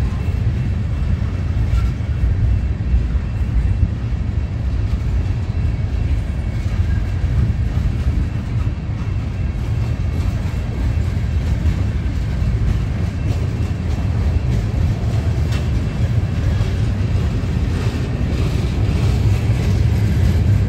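Freight train of steel scrap-metal gondola cars rolling past: a steady low rumble of wheels on rail, with a few faint clicks and a light squeal above it, more of them near the end.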